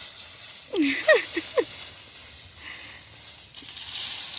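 A toddler's voice: four or five short, quick cries that swoop up and down in pitch about a second in, over a steady hiss of wind on the microphone.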